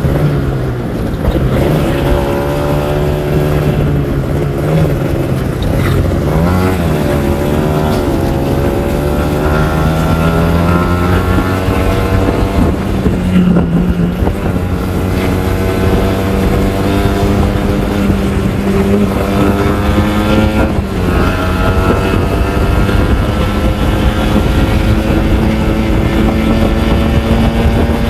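Kawasaki Ninja R 150's two-stroke single-cylinder engine running hard, its revs climbing, dipping briefly a couple of times, then climbing slowly again.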